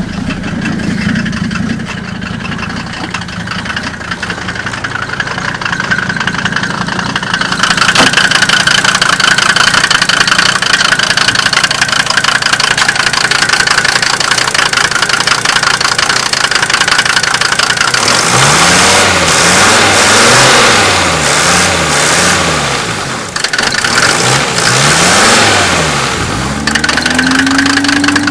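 1990 Mercedes-Benz 300D diesel engine idling steadily, then revved up and down several times in quick succession. Near the end it rises to a higher speed and holds there.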